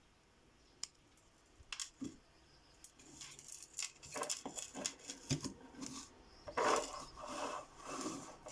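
Small clicks, taps and rustling from hands handling small hard objects, sparse at first and then busy from about three seconds in.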